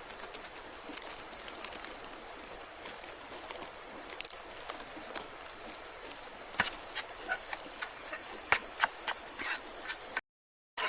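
Steady high-pitched insect drone, like cicadas or crickets, over faint forest hiss, with scattered sharp clicks and taps in the second half. The sound drops out completely for about half a second near the end.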